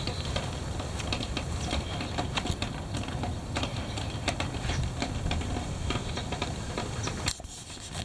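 Heavy wind buffeting the microphone in a steady low rumble, with scattered irregular ticks and taps. A sharp click comes about seven seconds in, after which the sound drops quieter.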